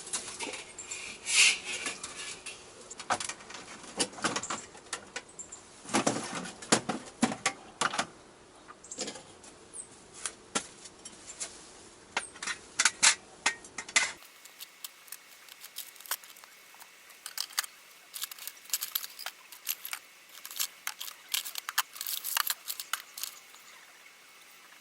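Metal cookware and utensils being handled, with irregular sharp clinks, clicks and knocks.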